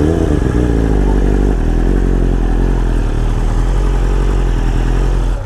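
BMW S1000RR's inline-four engine idling through an Akrapovic Evolution exhaust, a steady low note whose pitch wavers slightly in the first second or so.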